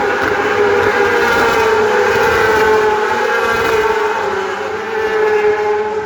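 Superbike race engines at high revs, the bikes passing on the circuit, their high-pitched note drifting slowly down.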